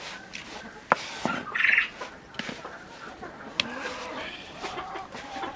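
Chickens clucking, with a short loud squawk about a second and a half in and a couple of sharp knocks.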